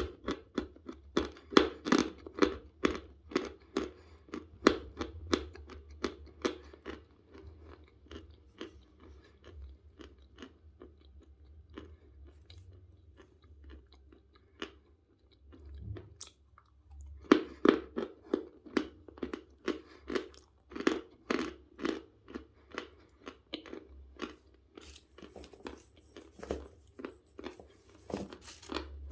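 Close-up chewing of lumps of natural Vasilpolye chalk: hard, dry crunches in a steady run of about two to three a second. The crunching thins out and grows quieter through the middle and picks up again past the halfway point.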